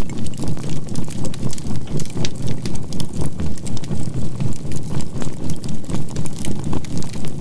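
A synthesized low healing tone with binaural beats, pulsing evenly three or four times a second, over the faint crackle of burning charcoal in a campfire.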